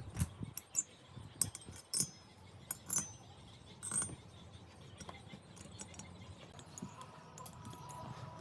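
Light metallic clinks and taps, a handful of them in the first half, then quieter; a faint steady high tone comes in near the end.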